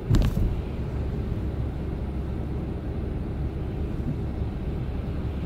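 Steady road and engine noise inside a Chevrolet Silverado pickup's cab while driving, with a short knock just at the start.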